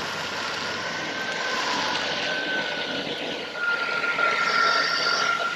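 Chevrolet Silverado pickup engine running, a steady rushing drone with a thin high whine held over it, a little louder in the second half.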